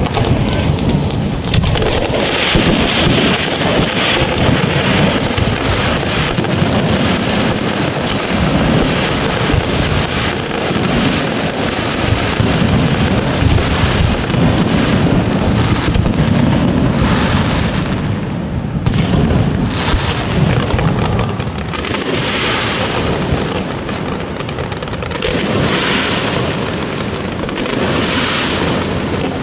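Fireworks display going off in a dense, continuous run of booms and crackling. The bursts keep up without a break, easing a little near the end.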